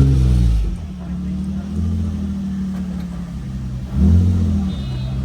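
Car engine revving: a rev falls away in the first second, the engine runs on steadily, then a short rev blip rises and drops about four seconds in.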